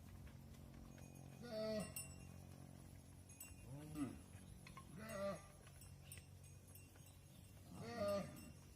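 Cattle bawling: four short calls whose pitch rises and falls, spaced a second or more apart. These are cows and calves calling to each other while they are separated.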